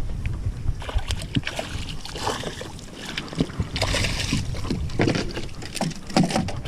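Strong wind buffeting the microphone as a low rumble, with scattered knocks and clatter throughout and a brief hiss about four seconds in.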